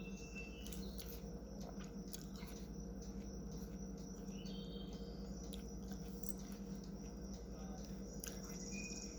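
Faint room tone: a steady low hum with scattered short, high-pitched chirps and a few clicks.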